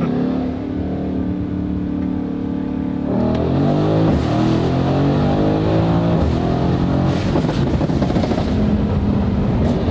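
Mercedes-AMG GLC63 S's twin-turbo V8 running at steady revs, then about three seconds in pulling hard, its pitch climbing and stepping through several gear changes, before settling to a steadier note near the end.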